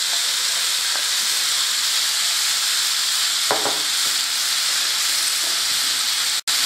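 Curd-marinated paneer cubes sizzling steadily as they fry in hot oil in a non-stick pan, with a single short knock about halfway through. The sound drops out for an instant near the end.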